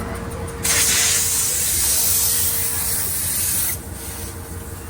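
A loud, steady hiss of air spraying under pressure. It starts suddenly about half a second in and cuts off after about three seconds.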